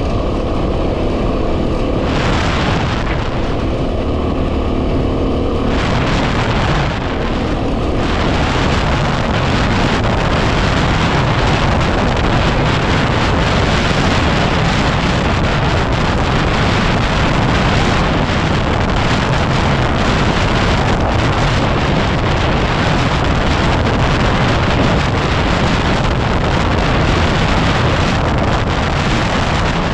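Yamaha WR250R's single-cylinder four-stroke engine running steadily on the move, under heavy wind buffeting on the microphone. The wind rush grows stronger about a quarter of the way in and then dominates.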